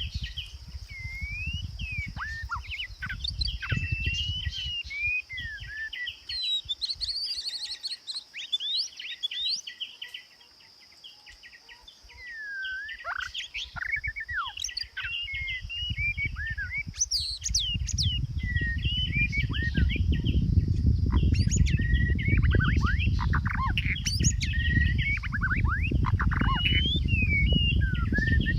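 A songbird singing a fast, varied run of chirps and whistled up-and-down slides, with a short pause about a third of the way in. A low rumbling noise builds up under the song after the middle and holds to the end.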